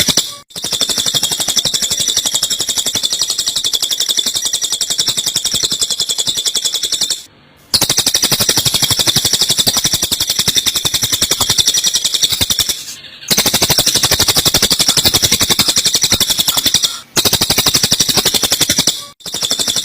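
Eurasian tree sparrows' fighting chatter mixed with cililin song: a dense, very fast, high-pitched run of chirps that stops briefly about 7 and 13 seconds in and twice near the end.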